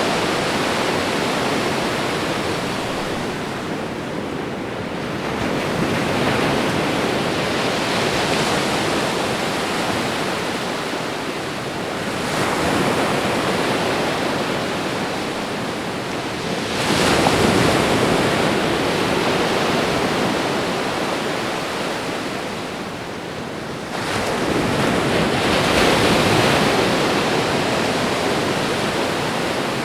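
Ocean waves breaking on a shore: four surges of rushing surf, one every five to seven seconds, easing back into a steady wash between them.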